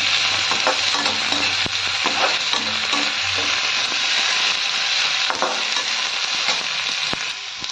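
Chopped onion and capsicum sizzling steadily in oil in a steel kadai while a spatula stirs them, with short scrapes and clicks of the spatula against the pan now and then.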